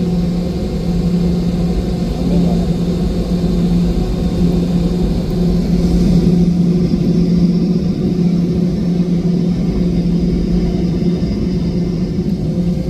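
Steady cabin drone of a Boeing 717-200 with its engines running: a constant low hum and rumble that swells slightly about halfway through. The aircraft's engines are rear-mounted Rolls-Royce BR715 turbofans.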